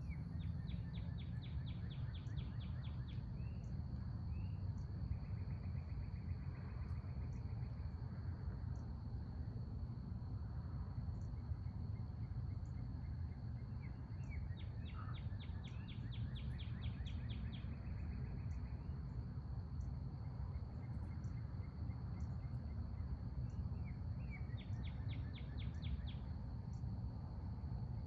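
Outdoor ambience: a steady low rumble under a continuous high insect drone, with faint regular ticks. A songbird sings a rapid trill three times, about a second in, about halfway, and near the end.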